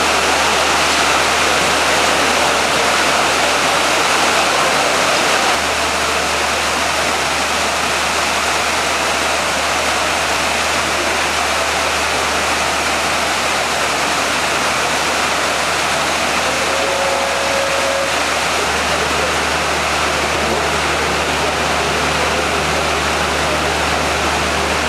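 Steady, loud rushing noise with a low hum underneath that shifts in level twice.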